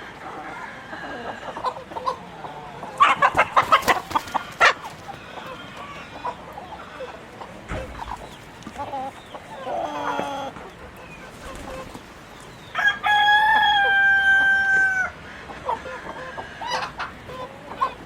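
Chickens clucking and calling, with a quick run of sharp clucks a few seconds in, and a rooster crowing once past the middle: one long, steady call of about two seconds, the loudest sound.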